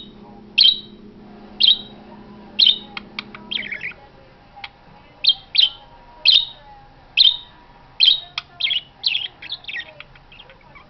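Pet budgerigar chirping: loud, short, sharp chirps about once a second, then quicker runs of chirps in the second half, tailing off into fainter ones near the end. A low background hum stops a few seconds in.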